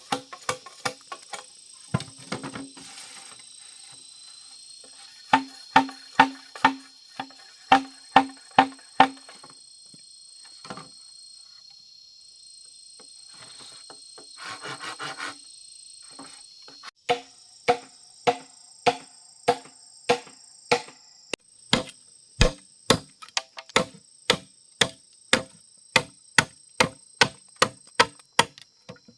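Sharp chopping or hammering blows on wood, coming in runs of about two strikes a second: a short run early on and a long, steady run from about halfway in. Insects chirr steadily behind.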